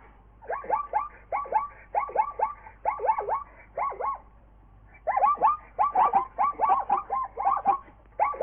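Rapid runs of short, squeaky animal calls, several a second, each dropping in pitch, with a short pause near the middle.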